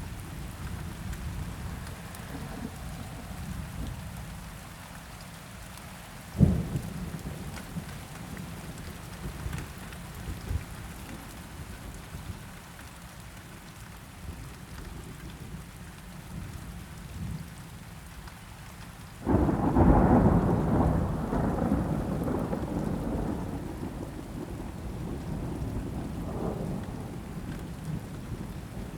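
Steady rain falling, with thunder: a short sharp clap about six seconds in, then a loud rumble that breaks suddenly about two-thirds of the way through and rolls on for several seconds before fading.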